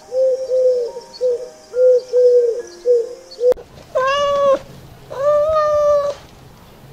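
Domestic cat meowing twice, a short meow and then a longer drawn-out one. Before that comes a quick run of short, rounded tones that stops abruptly.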